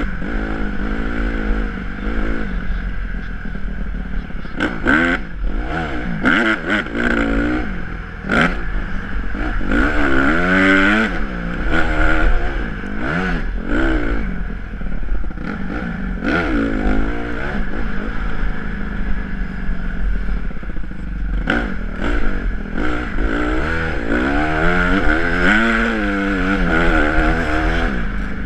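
Honda CRF150R's single-cylinder four-stroke engine being ridden hard, its pitch repeatedly climbing as the throttle opens and falling as it shuts off, with scattered clatter and knocks.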